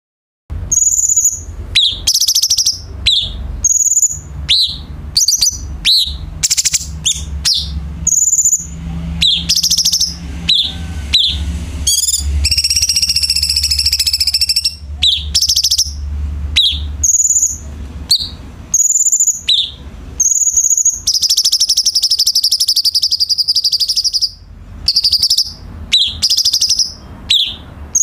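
Cucak cungkok bulbul singing: a quick run of short, loud chirps and whistles, with two longer rapid trills, one a little before halfway and another about three quarters through. A low hum sits underneath for the first half.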